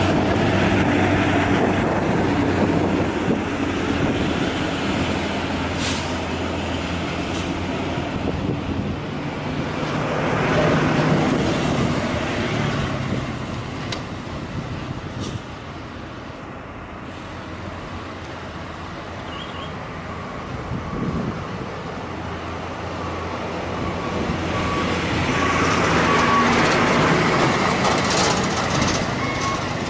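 Diesel engines of heavily loaded trucks labouring up a steep hill. They grow louder about a third of the way in, fade, then swell again near the end.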